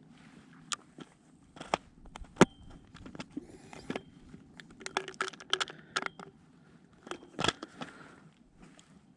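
Irregular sharp clicks and knocks mixed with crunching and crinkling, like small objects being handled close by; the loudest knocks come about two and a half seconds in and again near seven and a half seconds.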